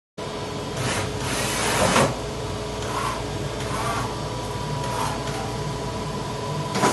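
Machinery running with a steady hum and a faint high whine, with several short hissing surges about a second apart.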